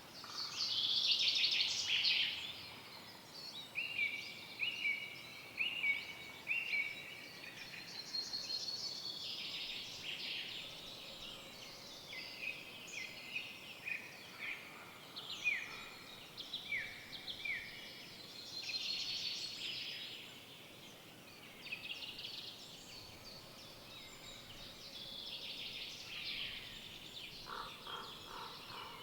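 Several songbirds singing together in woodland, overlapping chirps, trills and whistled phrases over a faint steady hiss. About four seconds in, one bird repeats a short note five times in a row.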